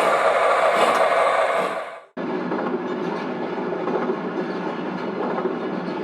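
Model trains running on track, a steady rolling rumble. About two seconds in it fades away and a second, quieter train running takes over abruptly.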